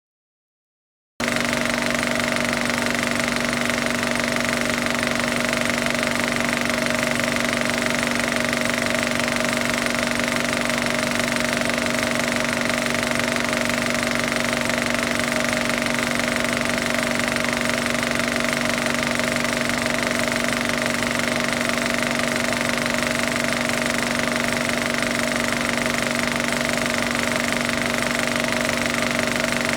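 Film projector running, a steady mechanical hum and whine that starts suddenly about a second in and holds unchanged.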